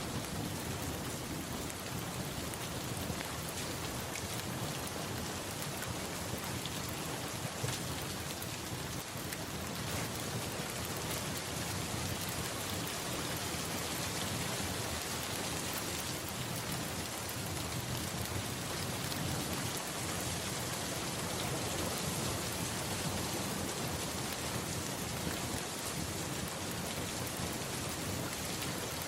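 Steady rain falling in an even hiss, with a low rumble of thunder underneath.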